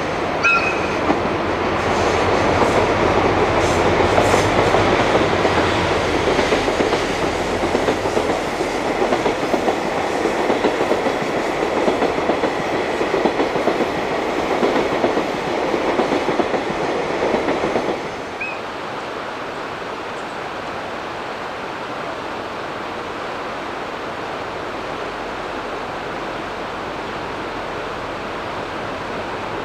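A train running past on the rails, its wheels clattering rhythmically over the rail joints, with a brief high squeal near the start. About two-thirds of the way through the train sound cuts off suddenly, leaving a steady rushing noise.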